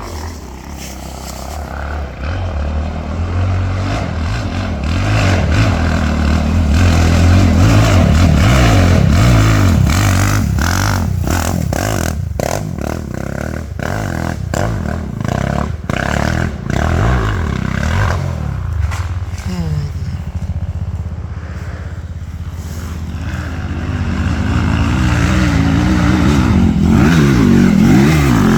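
Dirt bike engine revving hard, rising over the first several seconds, with a run of sharp knocks and clatter in the middle. The engine then eases off and revs up again near the end.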